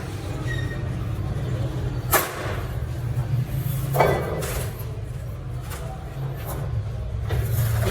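Two sharp knocks, about two seconds apart, over a steady low hum.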